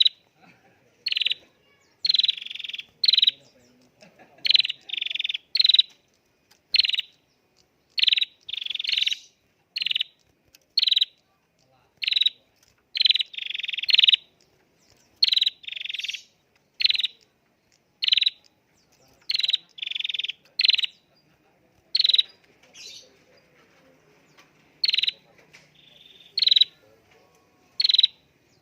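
Prenjak (prinia) calling repeatedly: short, loud, high chirps about once a second, some coming in quick pairs.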